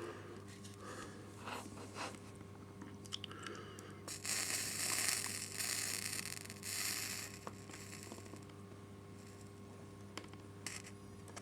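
Soldering iron running solder along the underside of N gauge flex track on liquid flux: faint hissing, sizzling spells, the longest about four to seven seconds in, with small scrapes and clicks of the iron against the rail.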